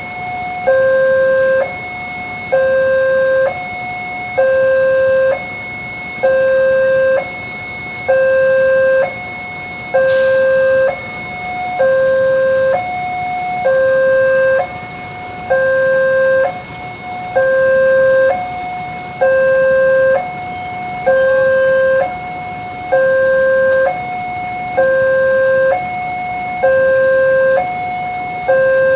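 Railroad level-crossing warning alarm sounding a loud two-tone hi-lo signal, alternating between a lower and a higher tone about once a second, steady and repeating: the warning that a train is approaching and the barrier is down. A brief sharp click a little after ten seconds in.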